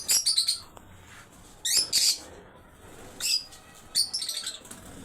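Birds chirping in short high-pitched bursts, several quick calls together at a time, coming in clusters about every second.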